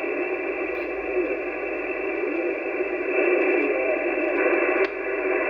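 Hiss and static from an 11-metre CB radio receiver's speaker, tuned to the freeband, with no voice that can be made out. The static gets louder about three seconds in, and a short click comes near the end.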